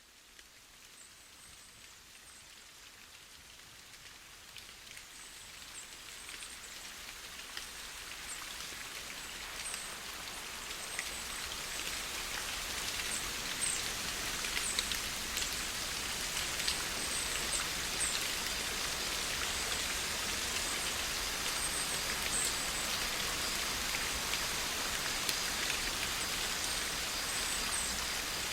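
Steady rain falling, a dense patter of drops on a surface, fading in gradually over the first dozen seconds and then holding steady.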